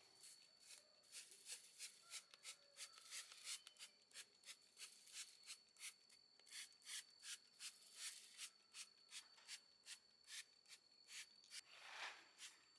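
Faint rubbing strokes worked back and forth by hand, about three a second, as in scrubbing or sanding a surface.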